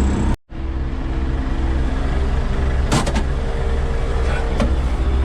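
Inside a tractor cab: the diesel engine drones steadily under the loud hiss of the air-conditioning blower. The sound cuts out completely for a moment about half a second in, and there are a few faint clicks in the second half.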